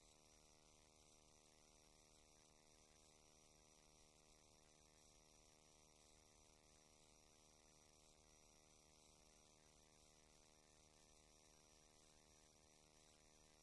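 Near silence: a faint, steady electrical hum with hiss, no other sound.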